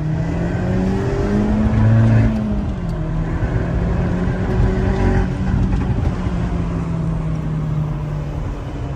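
Tuned Opel Corsa OPC Nürburgring Edition's turbocharged 1.6-litre four-cylinder engine pulling hard, heard from inside the cabin. The engine note climbs in pitch for about two seconds, drops back about two and a half seconds in, then holds steady.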